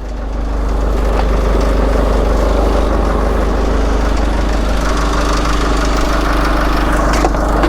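Motor vehicle engine running steadily with a deep low rumble.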